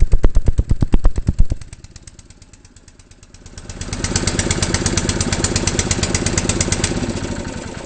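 Honda HS-55 snowblower's four-stroke engine running just after a cold start, with the choke not yet set right. It runs loud with a rapid pulse, drops much quieter after a second and a half, then rises back to a steady run about four seconds in and eases off near the end.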